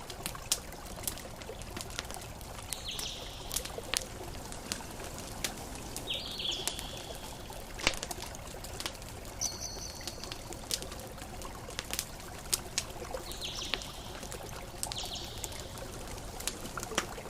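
Campfire crackling with frequent sharp pops and snaps over a steady wash of ocean waves, with a few short high chirps scattered through.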